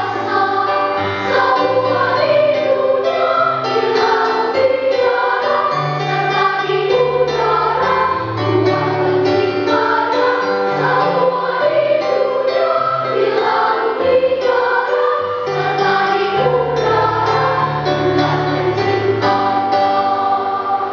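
Elementary-school children's choir singing a song in parts over a low, held bass line.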